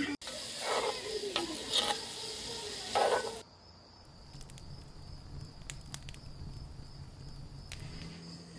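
Food sizzling as it cooks, a dense hiss with short flare-ups, for about three and a half seconds; then, after a sudden cut, crickets chirping steadily with a few faint clicks.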